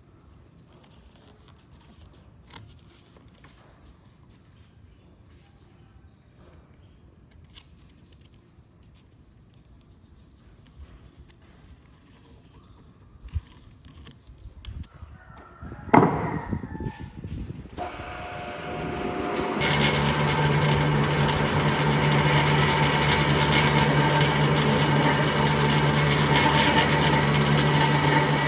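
Quiet at first with a few light clicks and a sharp knock, then a power tool starts about two-thirds of the way in. It spins up over a couple of seconds and runs steadily and loudly, cutting or sanding wood.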